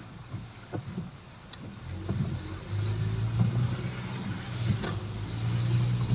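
A motor vehicle's engine running with a steady low hum, which comes in and grows louder about two seconds in, over a background hiss.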